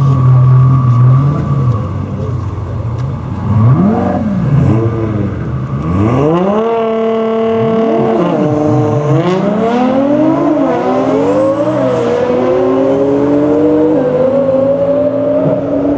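High-performance car engine revved in a few quick blips, then held at steady high revs for about two seconds, as at a drag-strip start line. It then drops and pulls away hard, rising in pitch with several brief dips as it shifts up through the gears.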